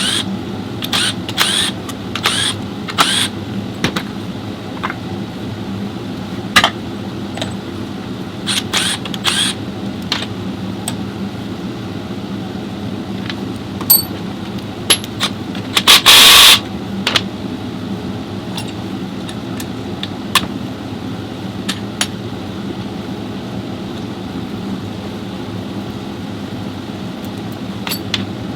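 Metal tools and parts clicking and clanking during hand work on a car transmission, over a steady low workshop hum. Clicks come often at first and thin out later, and about 16 seconds in there is one loud burst of hissing noise lasting about half a second.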